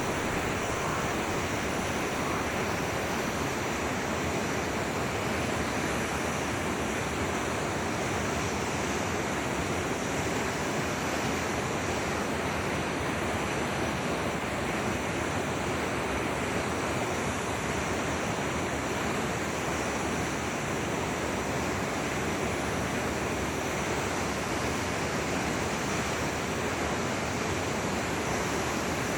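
Forest river flowing: a steady, even rush of running water.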